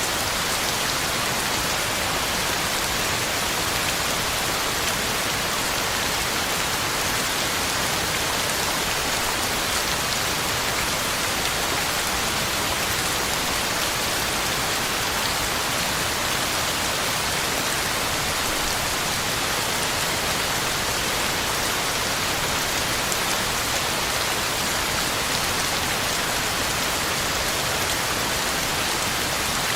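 Heavy rain falling steadily, a dense even hiss of drops hitting the ground and leaves.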